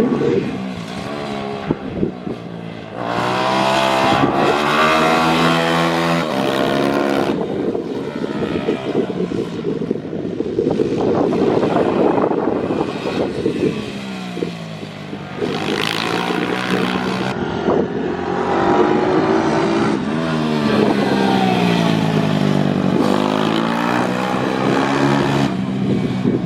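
Pit bike's small single-cylinder engine revving hard on track, its pitch climbing through each burst of throttle and dropping away again, over and over.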